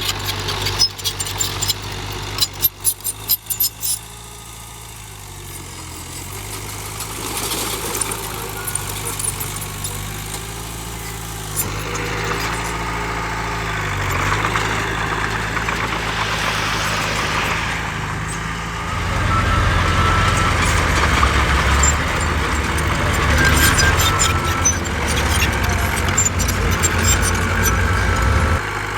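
Heavy diesel engines of a dump truck and bulldozer at work. A run of sharp knocks and clatter comes in the first few seconds, then an engine runs with its pitch shifting up and down, and it grows louder into a low rattling rumble about two-thirds of the way through.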